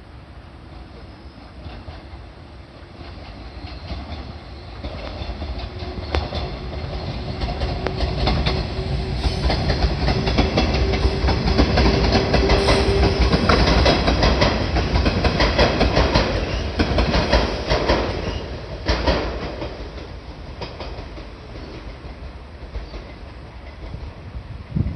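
JNR 381 series tilting limited-express electric train running past, growing louder and then fading away. Its wheels clack rapidly over rail joints, with a steady hum through the loudest part of the pass.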